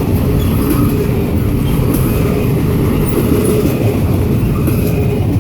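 Freight train cars rolling past close by: a loud, steady rumble of steel wheels on the rails with faint rhythmic clicking.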